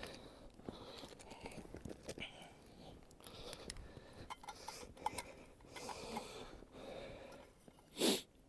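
Faint rustling of plastic bags and small clicks as food packets are handled. A short, louder rush of breath-like noise comes near the end.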